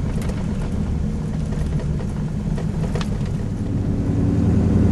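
Car engine and tyre noise heard from inside the moving vehicle's cabin: a steady low hum that grows louder near the end as the engine pulls harder.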